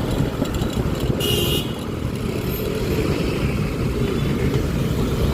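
Riding noise from a Honda Click 125i scooter in city traffic: a steady low rumble of engine and wind. About a second in there is a brief high beep lasting about half a second.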